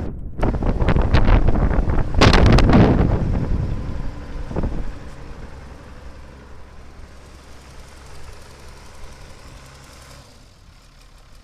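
Allis-Chalmers 7000 tractor's diesel engine running, revving hard in surges for the first few seconds. It then settles to a steady low idle that grows quieter.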